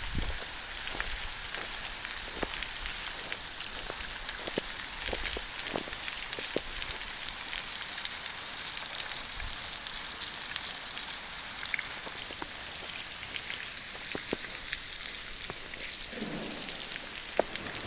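Waterfall pouring and splashing: a steady rain-like hiss sprinkled with many small sharp drips and ticks.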